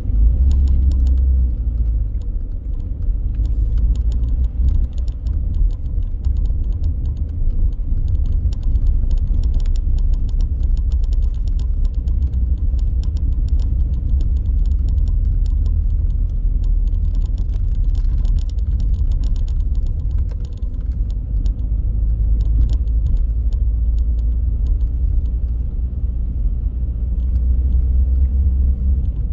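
Car driving: a steady low rumble of engine and tyres, with many light rattling clicks over much of it.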